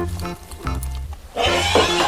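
Background music with a steady bass beat; about one and a half seconds in, a loud, rough, breathy horse vocalization comes in over it.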